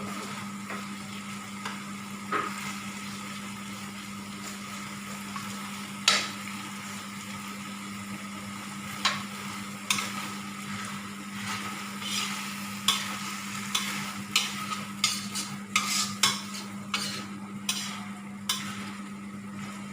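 Food sizzling in a frying pan with a steady hiss, while a cooking utensil stirs, knocking and scraping against the pan, the knocks coming more often in the second half. A steady low hum runs underneath.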